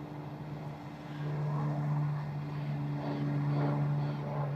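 Steady low motor hum, growing louder about a second in.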